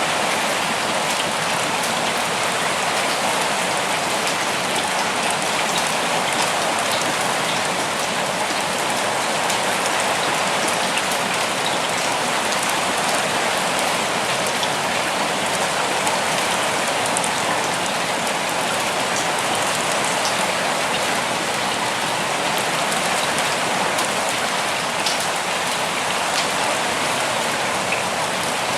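Steady, even rain falling and pattering on surfaces, with scattered individual drops ticking through the wash.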